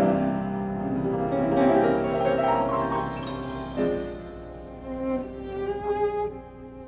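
Dramatic background score: sustained bowed strings (violin and cello) with piano, swelling at the start and then fading.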